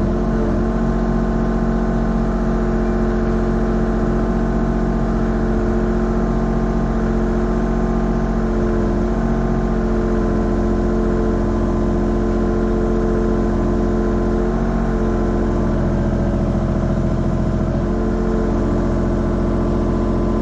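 Mini excavator's engine running steadily at one constant speed while the machine digs, its pitch barely changing.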